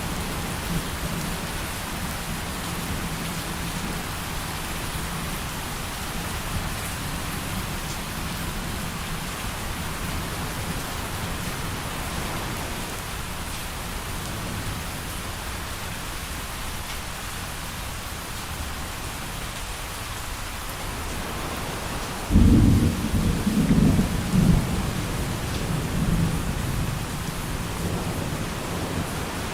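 Thunderstorm: rain falling steadily with low thunder rumbling underneath. About three-quarters of the way in, a loud thunderclap breaks out suddenly and rolls on in several peaks for a few seconds before fading back into the rain.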